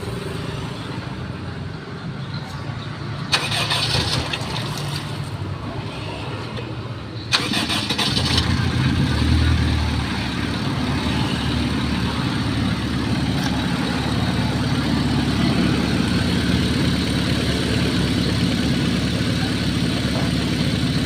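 Car engine starting and running: two short noisy bursts about three and seven seconds in, then the engine runs louder and steadier. The engine's compression is leaking into the cooling system, making the radiator water spurt.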